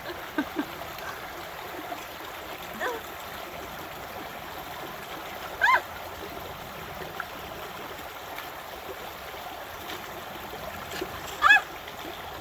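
River water rushing steadily over rocks, with two short vocal sounds from a person, one near the middle and one near the end.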